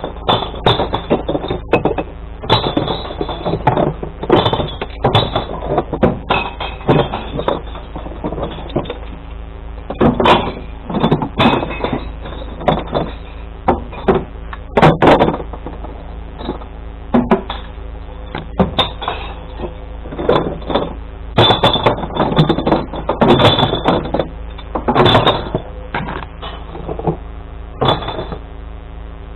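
Glass bottles and jars clinking and crashing in a long run of sharp impacts as they are tipped by colour into a glass recycling truck's compartments, over the steady hum of the truck's engine.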